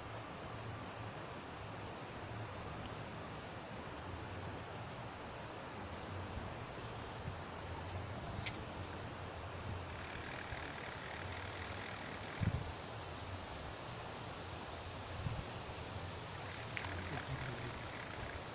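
Steady rushing of river water with a continuous high insect trill. A louder rattling buzz comes in about ten seconds in for two seconds, and again near the end.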